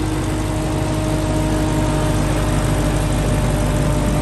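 Supercharged 6.2-litre HEMI V8 of a Dodge Hellcat Redeye idling steadily with a low rumble, which the owner guesses is running with a slight misfire.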